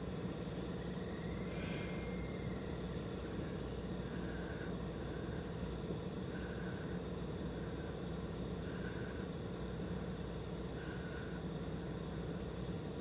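Steady hum and hiss of a stationary car whose engine is switched off by its idle-stop system, with faint short tones recurring every second or so.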